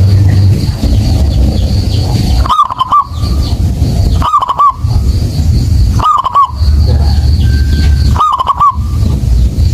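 Zebra dove (perkutut) cooing: four short rolling coo phrases, evenly spaced about two seconds apart, over a loud, steady low rumble.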